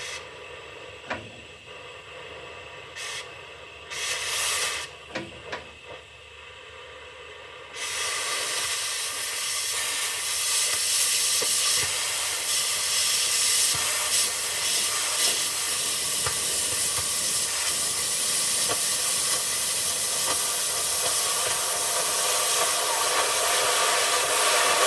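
Oxy-fuel cutting torch hissing: a few short spurts of gas, then, about a third of the way in, a loud steady hiss as the torch cuts and washes out a weld seam in steel.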